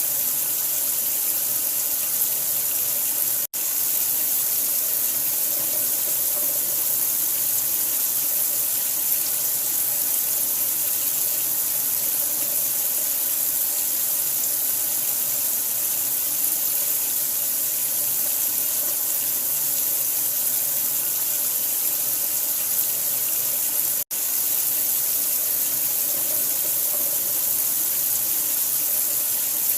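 Steady rush of running water, like a tap pouring into a sink, used as white noise to lull a newborn to sleep. It cuts out for an instant twice, about three and a half seconds in and again near twenty-four seconds in.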